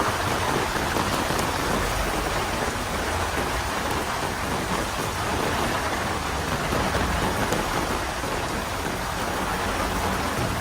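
Heavy rain falling steadily, an even hiss of rain on hard surfaces.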